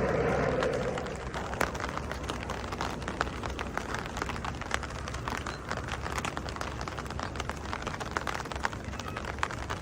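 Rain falling, heard as many irregular, sharp ticks of drops striking nearby surfaces over a low, steady rumble. A louder rushing sound fades away in the first second.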